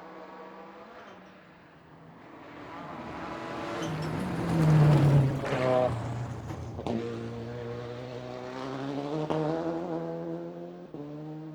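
Racing car engines at speed. One car comes up loud and passes, loudest about five seconds in with its pitch falling away. Then an engine note climbs steadily in pitch as it accelerates.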